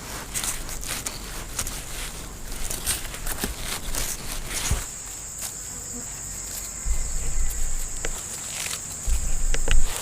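An insect's steady high-pitched buzzing or trilling that starts about halfway through and keeps going, over scattered rustling and small knocks, with a couple of low rumbling bumps near the end.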